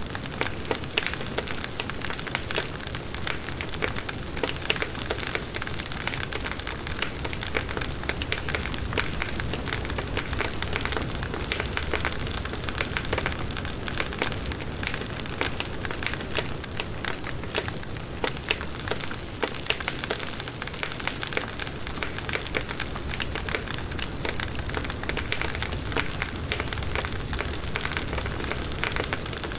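Firewood burning in a campfire, with dense, continuous crackling and frequent sharp pops over a steady hiss.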